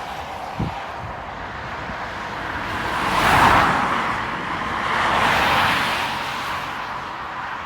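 Two road vehicles passing one after the other, each a swell of tyre and engine noise that rises and fades, the first loudest about three and a half seconds in and the second about two seconds later. A brief low knock comes just after the start.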